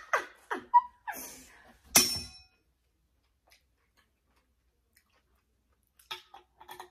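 Chewing and small mouth noises from someone eating a peanut-butter-dipped pickle, with one sharp, ringing clink of a metal fork on a ceramic plate about two seconds in. The sound cuts out a moment later, and a few small clicks follow near the end.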